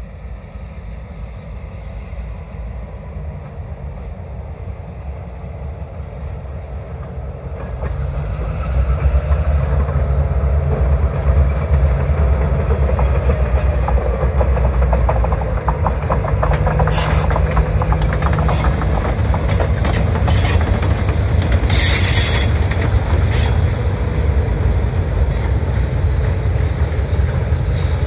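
A short freight train hauled by two diesel locomotives. The engines' low rumble grows louder over the first several seconds as the train approaches, then stays loud as it passes. The wheels click steadily over the rail joints, and several sharp, high wheel squeals come in the second half.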